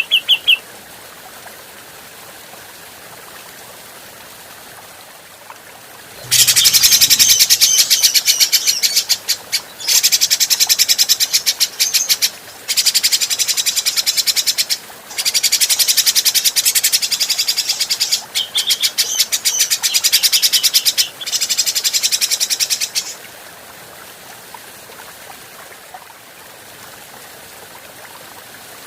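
Grey-cheeked bulbul (cucak jenggot) calling: a short call at the very start, then after a pause a long run of rapid, harsh chattering notes in several bursts with brief gaps, ending about two-thirds of the way through.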